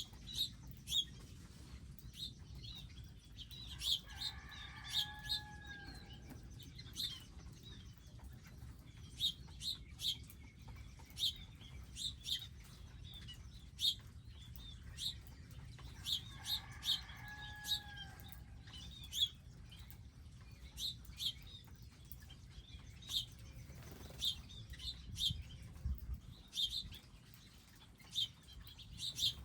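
Small wild birds chirping over and over in short high notes, with a longer, lower call heard twice, about twelve seconds apart.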